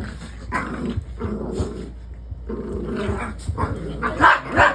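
Dogs growling and barking in short uneven bursts, with louder barks near the end.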